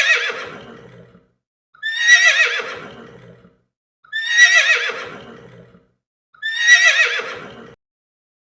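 Horse whinnying: the same neigh repeated four times, about two seconds apart. Each is a high, quavering cry that trails off.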